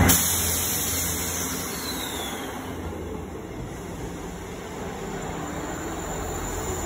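South Western Railway diesel multiple unit running past close to the platform, a steady rumble of wheels on rail that is loudest at the start and eases off within the first second. A faint falling whine comes about two seconds in.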